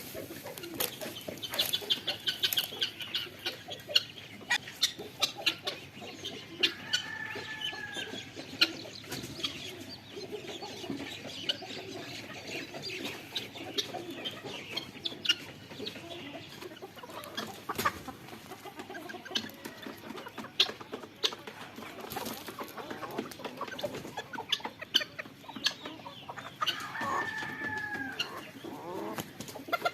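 Chickens clucking in an aviary, with many short sharp clicks throughout and two longer arched calls, one about seven seconds in and one near the end.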